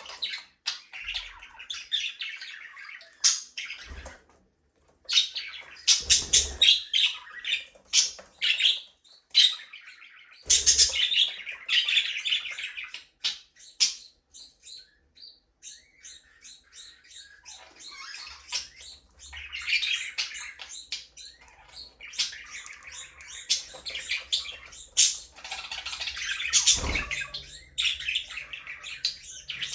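Budgerigars chirping and chattering in rapid bursts of short, high calls, with a quieter spell in the middle; a few brief knocks, most likely the birds moving about the cage or aviary, cut in.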